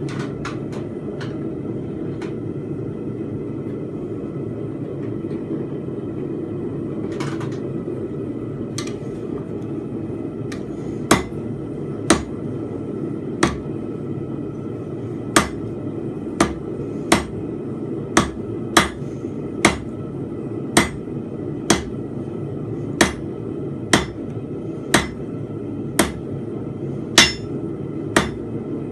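Hand hammer striking a hot steel bar on an anvil while forging a fence peg: a few light taps at first, then regular ringing blows about once a second for the second half. A steady low rushing noise runs underneath.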